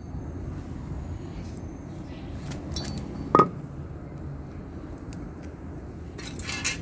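Hands handling metal parts and tools at a motorcycle wheel hub: one sharp metallic clink about three and a half seconds in over low handling rumble, with a brief rustle near the end.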